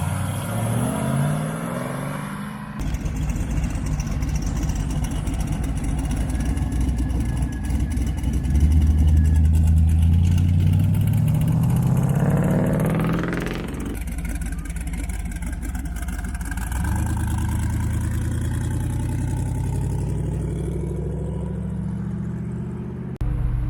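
Car engines running at a steady low rumble. About halfway through, one engine is revved hard, its pitch climbing steeply and then dropping away. The sound shifts abruptly a few times, as if between different cars.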